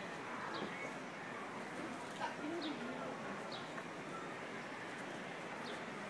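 Small birds chirping: short, high, falling chirps every half second to a second, over a steady outdoor background hum.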